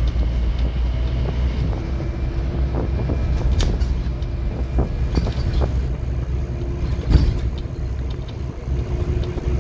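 Scania N230UD OmniCity double-decker bus heard from inside, its diesel engine running with a steady low rumble under rattles from the body and fittings. There are a few short knocks, and a louder thump about seven seconds in.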